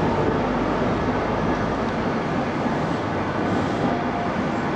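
East Coast intercity train moving alongside the platform, giving a steady rumble of wheels on the rails.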